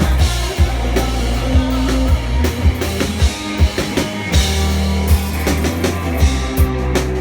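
Live rock band playing loud: the kick drum hits about twice a second over held bass notes, with cymbal strikes coming in near the end.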